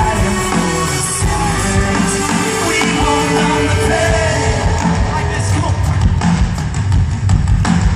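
Live rock band playing, with a voice singing over it.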